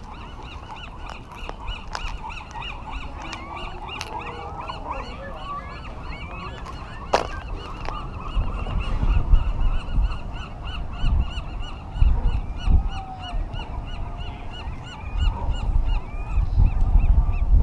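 A crowd of sea lions barking together in a dense, overlapping chorus of honk-like calls. From about halfway through, wind rumbles on the microphone, and there is one sharp click about 7 seconds in.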